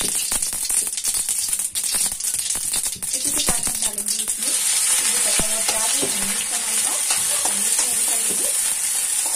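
Mustard seeds crackling and popping in hot oil in a kadhai. About three seconds in, chopped onion and green chilli go in, and the popping gives way to a steady sizzle as they fry and are stirred with a spatula.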